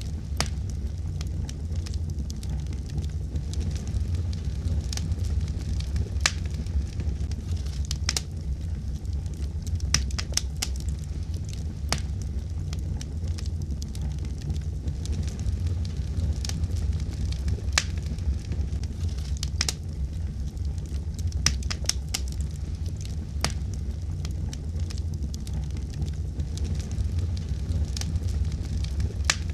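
Fire crackling in a fireplace: irregular sharp pops and snaps, several a second at times, over a steady low rumble.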